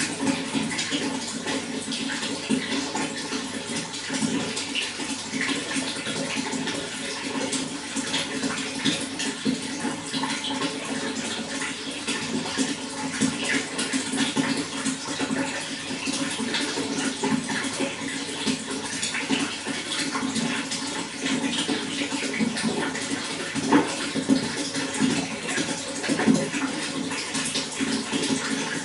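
Running water flowing steadily, a continuous rush with dense small bubbling and splashing throughout.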